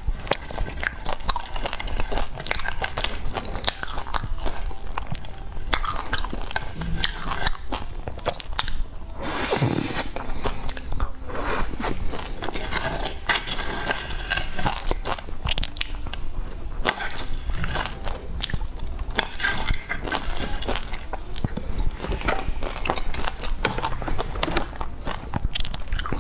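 Close-miked eating sounds: chewing, biting and wet mouth clicks picked up by a clip-on microphone, with a chopstick scraping food off a wooden cutting board. A brief louder rush of noise comes about nine seconds in.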